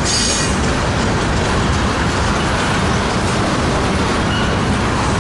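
Freight train rolling past: a steady rumble of wheels on rail, with a brief high wheel squeal at the very start.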